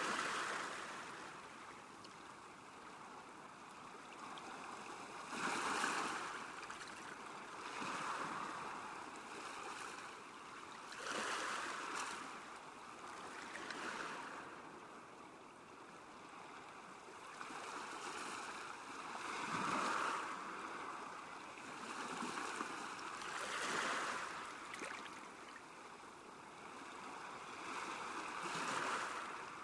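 Small waves lapping at a lake shore, a soft splash of water breaking every two to three seconds over a steady wash.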